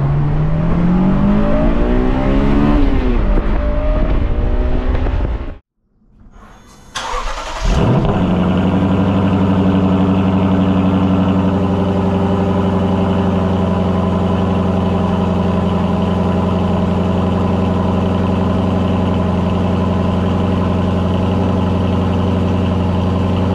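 A car engine revving, its pitch climbing, then cutting off abruptly. About seven seconds in, an engine starts and settles into a steady idle.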